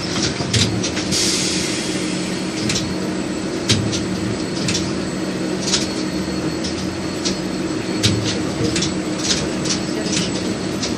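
Interior of an LVS-86K tram running between stops: a steady low hum with irregular clacks and knocks from the wheels on the rails, and a short hiss about a second in.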